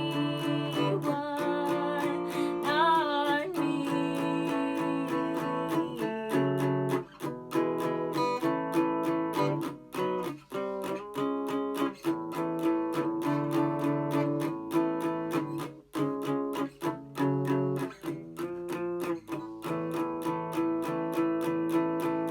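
Acoustic guitar strummed in a steady rhythm, playing sustained chords.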